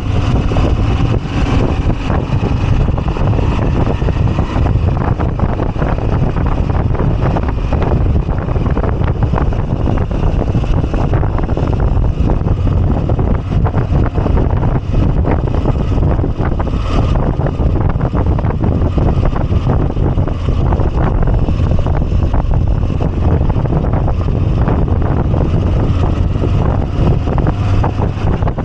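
Moto Guzzi V85TT's air-cooled V-twin engine running steadily on the move, with wind rushing over the microphone.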